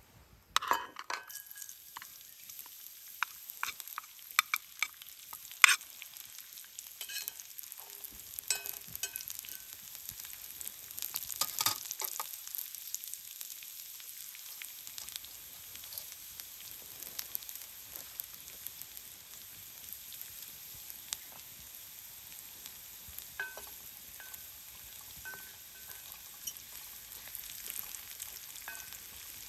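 Food sizzling in a pan as it is stirred, with sharp clinks and clatter of a utensil against the pan. It starts suddenly about half a second in, from near silence.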